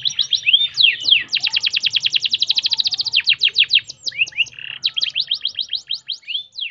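Domestic canary singing: a continuous string of quick, high, down-slurred notes, with a fast rolling trill lasting a couple of seconds, starting just after the first second.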